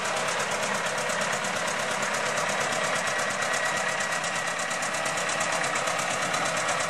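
Antique tractor engine running steadily with a fast, even beat.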